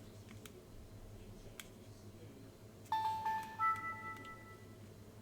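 A couple of small plastic clicks, then about three seconds in a short electronic jingle of a few held tones from a Nintendo DSi's speaker as the console powers up.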